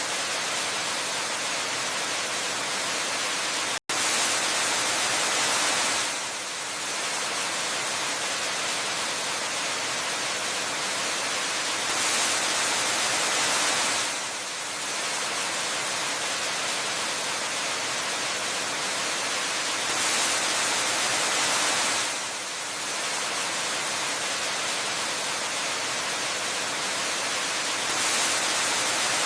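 Waterfall ambience: a steady, even rush of falling water that swells a little louder for a couple of seconds about every eight seconds. There is a momentary cut-out about four seconds in.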